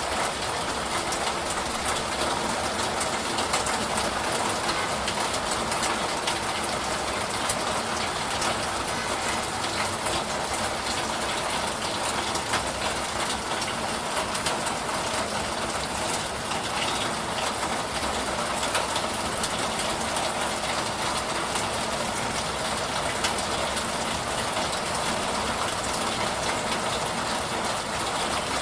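Steady rain falling: an even hiss scattered with many small drop ticks, unchanging throughout.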